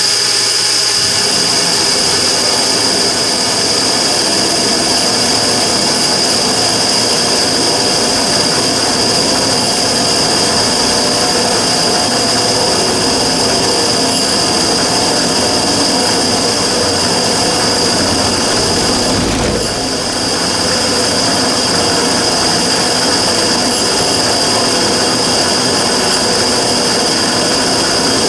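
Immersion-tube burner running steadily with a strong high-pitched whine over a broad rushing noise: the abnormal noise from the burner. The level dips briefly about two-thirds of the way in.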